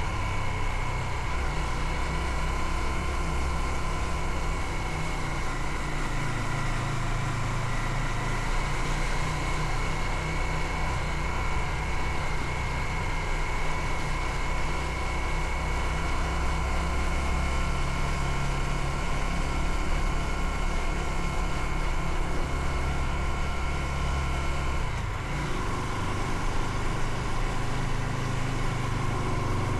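Motorcycle engine running steadily during a ride, its pitch shifting up and down every few seconds as the speed changes, under a continuous rush of wind and road noise.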